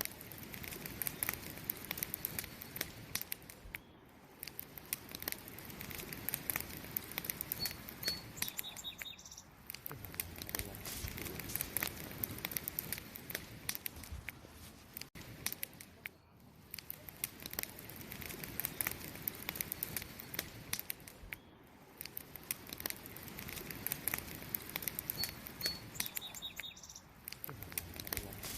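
Wood campfire burning, crackling steadily with many small pops and snaps. A bird gives a couple of short high chirps about eight seconds in and again near the end.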